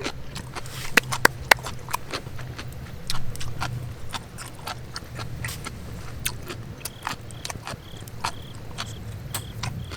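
Irregular sharp clicks and ticks over a steady low hum, the loudest a few about a second in, with several short high-pitched peeps spaced evenly over the last few seconds.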